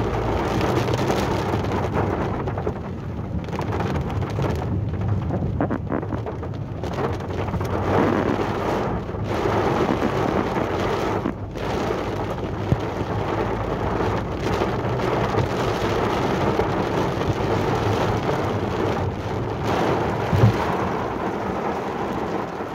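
Heavy rain pounding on a car's roof and windscreen, heard from inside the moving car as a dense, steady rushing noise. A sharp knock stands out near the end.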